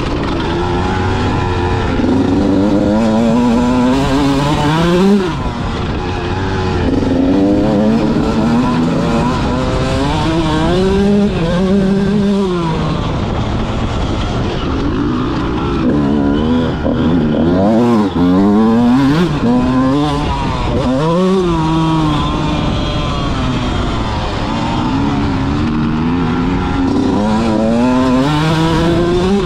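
Motocross bike engine running hard on the track, its pitch climbing and dropping back over and over as the throttle is opened and closed.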